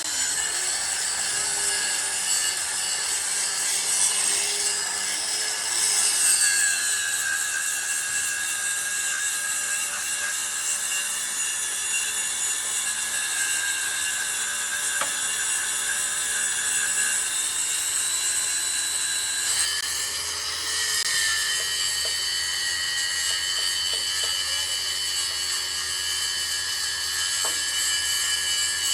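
A power tool running steadily with a high whir and rasp. Its pitch and tone shift about two-thirds of the way through.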